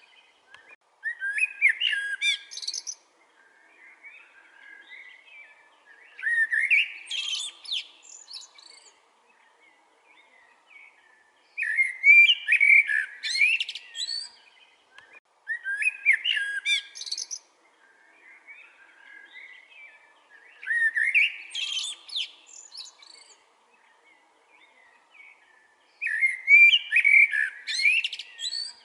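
Common (Eurasian) blackbird singing: about six separate song phrases, one every four to five seconds, with fainter chirping between them.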